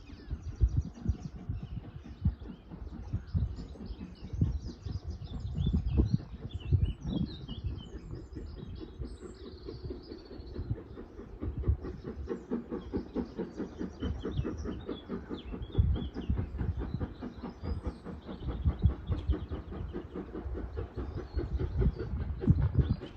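Two-cylinder GWR Hall-class steam locomotive 7903 Foremarke Hall working away, its exhaust beating in a steady, repeated rhythm. Birds sing over it.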